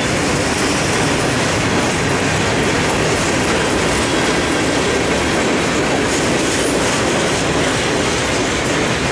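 Freight cars (covered hoppers and boxcars) rolling steadily past close by, their steel wheels on the rails making a loud, continuous noise.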